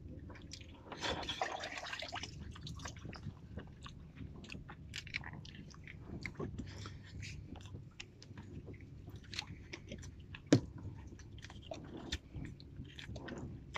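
Close mouth sounds of a man chewing raw sea urchin roe, with many small wet clicks and one sharper click about ten and a half seconds in.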